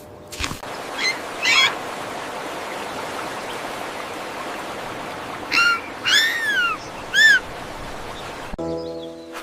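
A few short high-pitched animal calls, each rising then falling in pitch, over a steady hiss. Music starts near the end.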